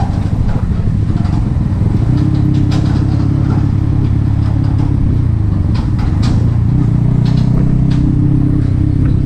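Yamaha XSR 155's single-cylinder engine running under way through an aftermarket M4 exhaust, a steady engine note whose pitch rises about two seconds in, dips around five seconds and climbs again soon after.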